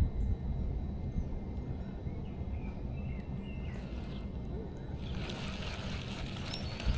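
Outdoor ambience: a few faint bird chirps over a steady low wind rumble on the microphone, with a hiss rising about five seconds in.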